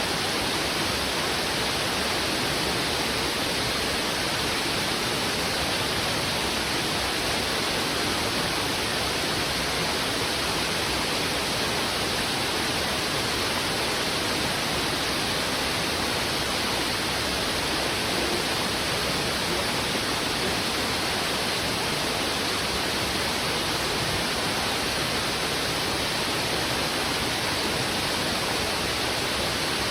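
Heavy river water rushing over rocks: a steady, dense rush with no breaks or changes.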